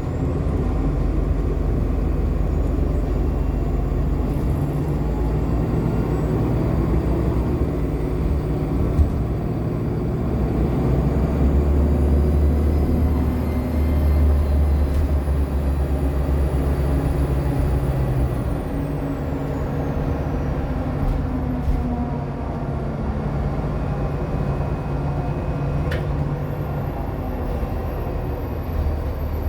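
Inside a 2014 Nova Bus LFS articulated hybrid bus under way, with a Cummins ISL9 diesel and an Allison H40 EP hybrid drive: a steady low engine and driveline rumble. A thin high squeal rises about ten seconds in, holds for several seconds and falls away near twenty seconds. This is the loud squeal the bus makes each time it reaches about 35.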